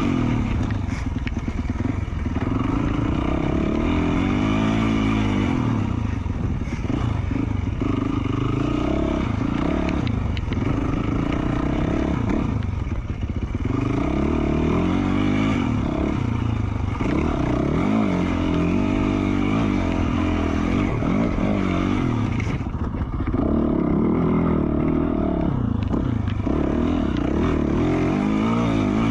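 2020 Yamaha YZ450F four-stroke single-cylinder dirt bike engine through an FMF Q4 slip-on exhaust, revving up and down repeatedly as it is ridden on and off the throttle along a trail.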